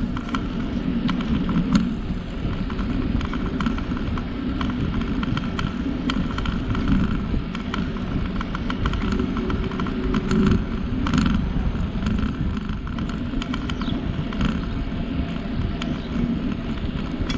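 Bicycle riding along a trail: a steady rolling rumble with scattered clicks and rattles from the bike.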